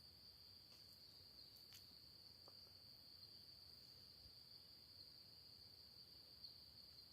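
Faint, steady high-pitched trill of crickets chirring without a break, with a few faint ticks.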